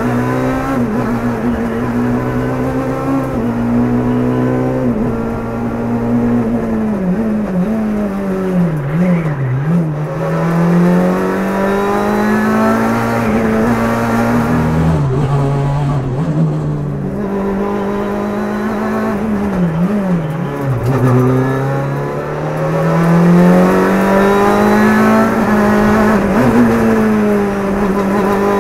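Rally car engine heard from inside the cabin, revving hard: its note climbs and drops back repeatedly as it shifts through the gears. Twice it falls away into a short wavering low note before building again.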